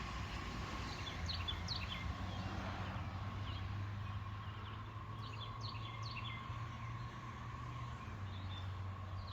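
Swallows chirping in short clusters of quick, high notes several times, over a faint steady hum.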